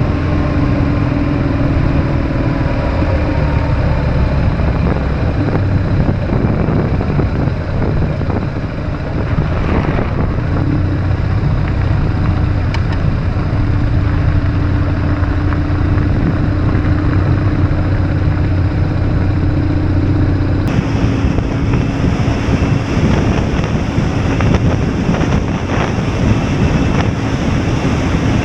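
BMW R1150GS boxer-twin engine running at steady road speed, its pitch drifting slowly with the throttle, with wind rushing over the microphone. The sound changes abruptly about 21 seconds in.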